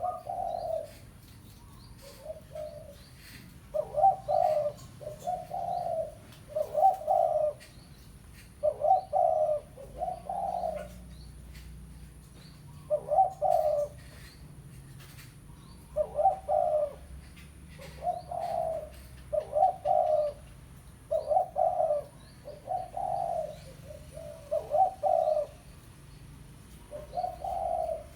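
Spotted dove (tekukur) cooing over and over in short phrases of a few deep coos each, the territorial call that draws rival doves. Faint chirps of small birds sit behind it.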